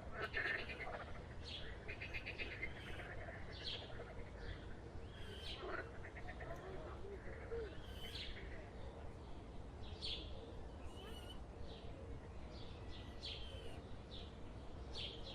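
Birds chirping in short, scattered calls, with a few quick rattling trills in the first seconds, over a steady low rumble.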